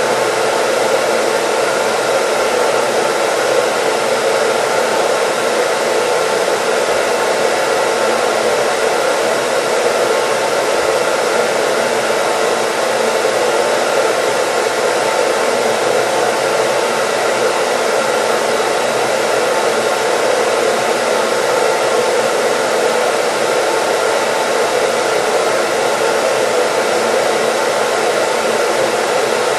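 Hair dryer running steadily, a continuous airy whoosh with a faint motor hum, used as white noise.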